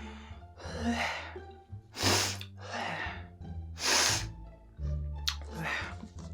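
A person's sharp, hissing breaths through the mouth, the two loudest about two and four seconds in, from a mouth burning with very spicy noodles. Background music with steady low tones plays underneath.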